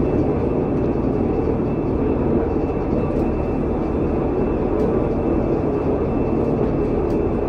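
Steady running noise heard inside a Pilatus Railway cogwheel (rack) railcar as it descends the steep line. The sound is an even, unchanging drone with no breaks.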